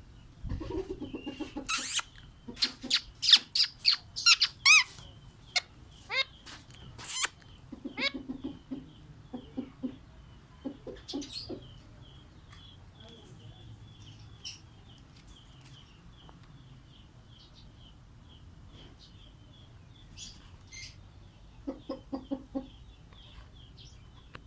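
Birds calling: a run of loud, sharp squawks and screeches in the first eight seconds, short bursts of low pulsed clucking that come and go, and faint steady chirping behind them.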